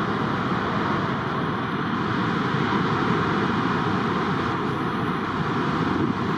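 Steady roar of heavy ocean surf, with wind noise on the microphone.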